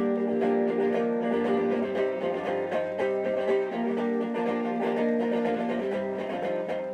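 Acoustic guitar picking an instrumental passage between sung lines of a folk song, played live.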